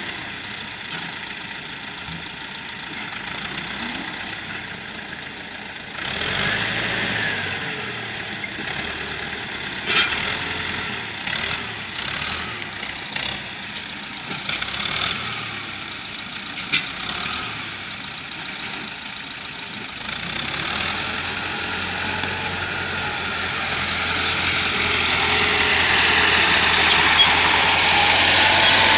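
T-40 tractor's air-cooled diesel engine running, working harder and louder about six seconds in and building again near the end, with two sharp knocks about ten and seventeen seconds in.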